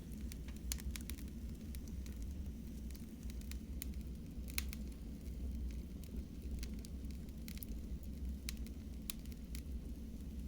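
Wood fire burning in a fireplace: irregular sharp crackles and pops, one or two a second, over a steady low rumble of the flames.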